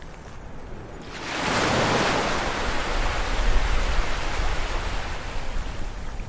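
Ocean waves on a beach: a wave breaks about a second in and its surf rushes on, over a low rumble.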